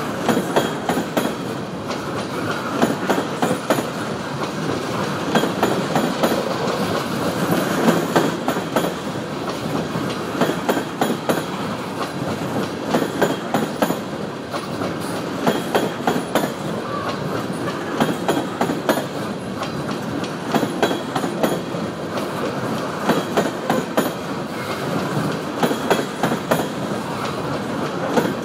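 Empty coal cars of a freight train rolling past close by: a steady rumble of steel wheels on rail, with groups of clicks every second or two as wheelsets cross rail joints.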